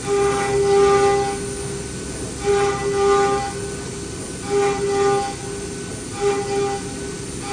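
CNC milling machine cutting: a high-pitched cutter whine rises out of steady machine noise in repeated stretches of about a second, roughly every two seconds, as the tool goes in and out of the cut.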